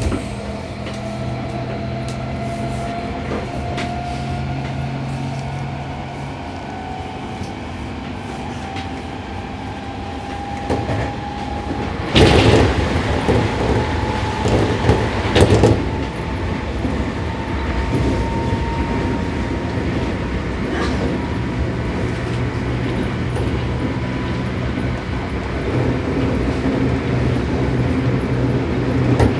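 Interior running sound of a Seibu 6000 series electric train in its motor car: the Toshiba IGBT inverter and traction motors whine, the tone climbing slowly as the train gathers speed over the steady rumble of wheels on rail. About twelve seconds in, a loud rushing noise swells for some three seconds, then the steady running resumes.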